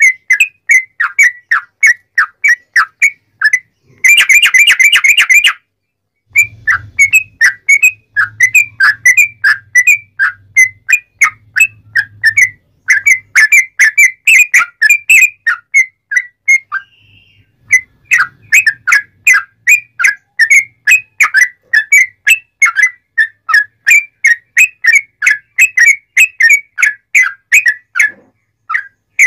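Yellow-vented bulbul (trucuk) singing loud, fast strings of short whistled notes. A very dense trill comes about four seconds in, and there are brief pauses twice.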